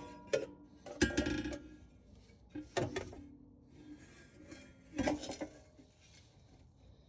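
Metal exhaust parts clinking and clanking as the stock midpipe and its gasket are handled and fitted into place: a few separate knocks, each with a brief metallic ring.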